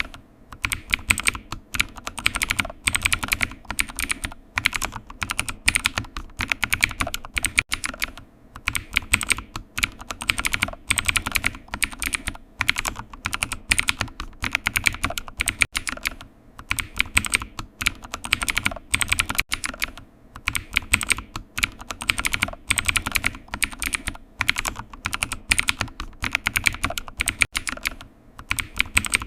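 Typing on a computer keyboard: a steady run of key clicks in bursts, with short pauses between them.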